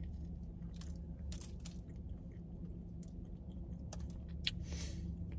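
Close-mic chewing and biting of a breakfast biscuit sandwich: soft wet mouth sounds and small crunches, the sharpest crackle about four and a half seconds in, over a steady low hum.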